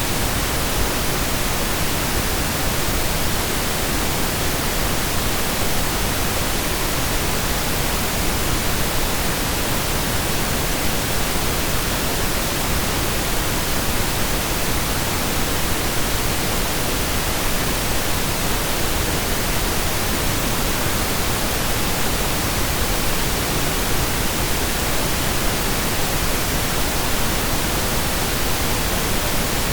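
Steady synthesized pink noise: an even, unchanging hiss spread across the whole range with equal energy per octave, like steady rain or a waterfall heard from indoors.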